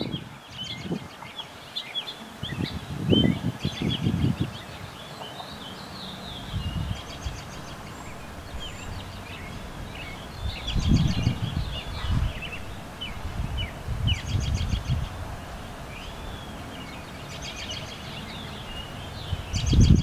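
Several wild birds chirping and calling, with a short high trill repeating every few seconds. Gusts of wind rumble on the microphone now and then.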